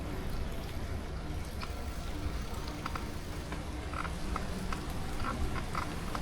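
Frogs croaking in short, separate calls, more of them in the second half, over a steady low rumble from the moving bike.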